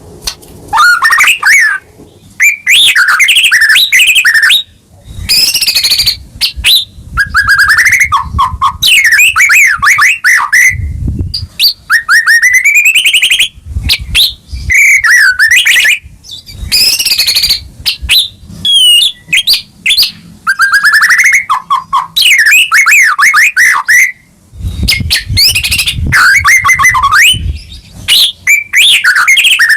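White-rumped shama (murai batu) singing loudly in full, vigorous song: phrases of one to two seconds of rising and falling whistles and rapid trills, broken by short pauses. A low rumble sits under a few of the phrases.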